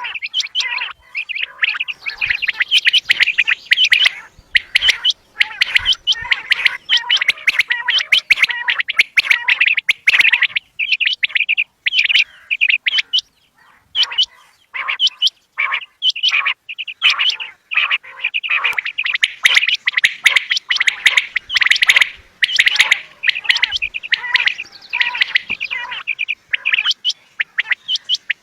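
Quail calling: a dense run of short, sharp chirps repeated rapidly, with a few brief pauses.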